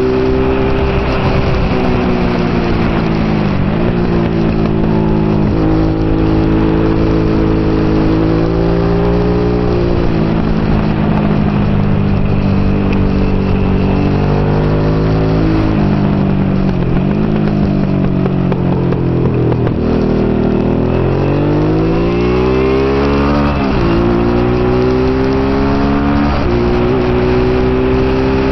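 Honda NT650 Hawk GT's 647 cc V-twin at race pace. Its revs climb under acceleration and drop abruptly at each of several gear changes. Past the middle the revs fall away as the bike slows, then climb hard again.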